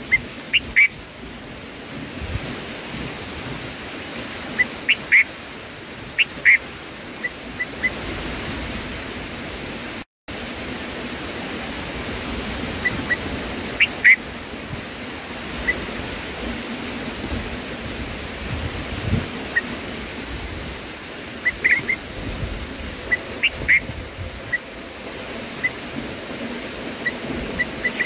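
Short, high bird chirps, single and in little clusters, scattered over a steady rushing background noise. The sound drops out for a moment about ten seconds in.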